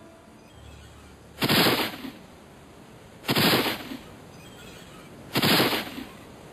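Three loud gunshot sound effects, about two seconds apart, each with a short echoing tail.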